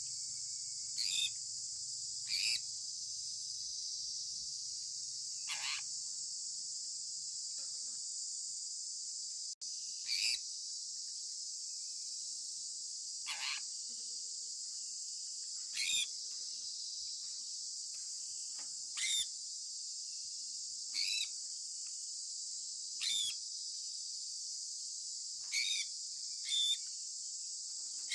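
Sun conure parrot giving short, sharp chirps every two to three seconds, about a dozen in all, two of them sliding down in pitch, over a steady high hiss.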